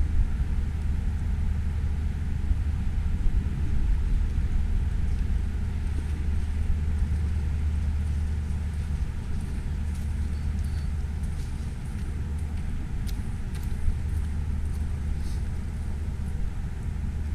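Steady low outdoor rumble of wind and road traffic, with a few faint ticks.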